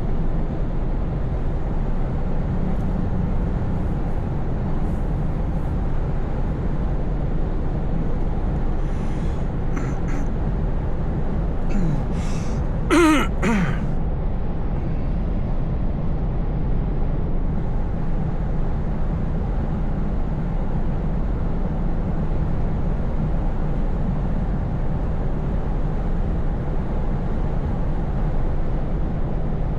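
Scania S580 truck's V8 diesel engine running steadily, with road noise, heard from inside the cab. About thirteen seconds in comes a short, louder sound that falls in pitch.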